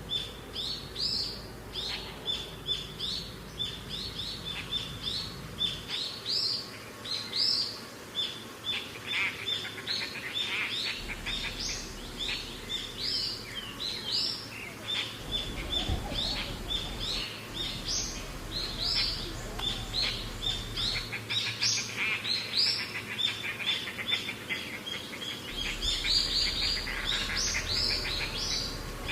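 Small birds chirping continuously, many short high notes several a second, busiest near the end.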